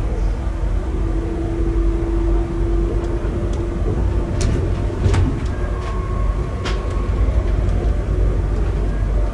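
Moving passenger train heard from inside the carriage: a steady low rumble of the wheels on the rails, with a faint steady hum over the first few seconds and a few sharp clicks from the wheels over the track in the middle.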